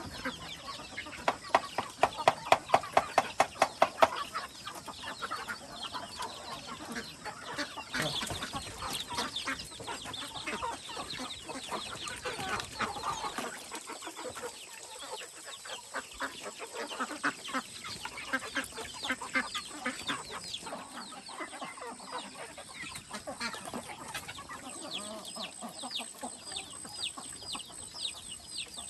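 Chickens clucking, with high, falling peeps, typical of chicks, repeating in the last few seconds. Between about one and four seconds in, a fast run of loud, evenly spaced knocks stands out above the birds.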